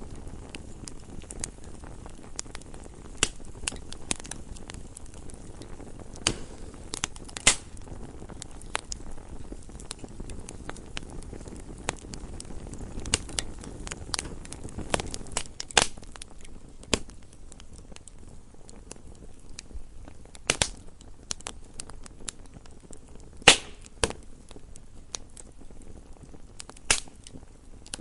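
Wood fire burning in a fireplace: a low steady hiss with irregular sharp crackles and pops, the loudest near 16, 20, 23 and 27 seconds in.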